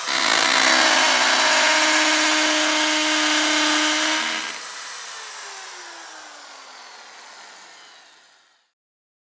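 Electric power drill running loudly at a steady speed for about four seconds. Then its motor winds down with a falling whine that fades out over the next few seconds.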